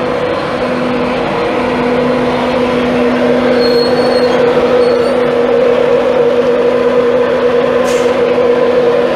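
Class 91 electric locomotive and its train at the platform, a loud steady electrical hum over a rushing noise, growing slightly louder partway through.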